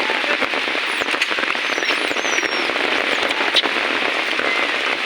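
Heavy rain pouring down, a dense steady hiss with many sharp crackling drop impacts. A few faint high squeaks sound over it.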